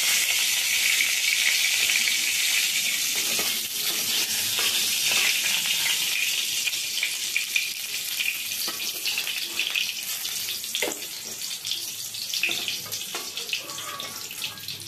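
Pointed gourds (potol) sizzling in hot oil in a kadai, with scattered clicks and scrapes of a metal spatula against the pan as the fried pieces are lifted out. The sizzle grows steadily fainter as the pan empties.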